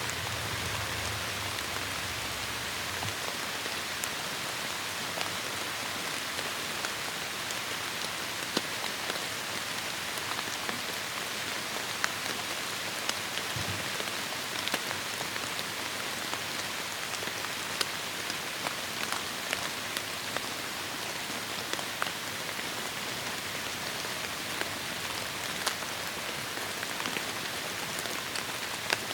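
Heavy rain falling on forest foliage: a steady, even hiss dotted with many sharp ticks of individual drops.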